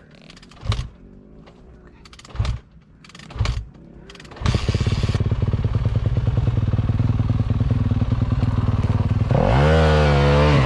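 A few dull thumps, then a dirt bike engine starts about four and a half seconds in and idles with a steady rapid beat. Near the end it revs up and down.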